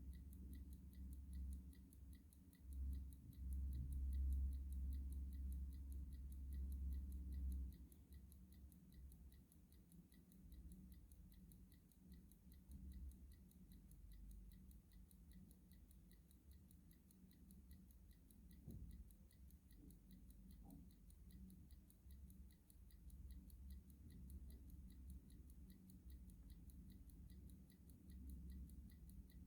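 Clock ticking at a steady, even rate, faint, over a low rumble that swells for several seconds near the start.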